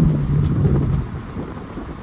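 Straight-piped Mercedes-Benz C350's 3.5-litre V6 exhaust under load; its note steps down in pitch at the start, then the sound falls away about a second in to a quieter rumble with road and wind noise.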